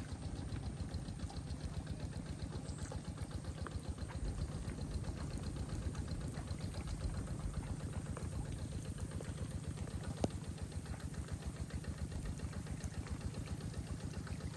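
An engine idling steadily with a rapid, even chugging. There is a single sharp click about ten seconds in.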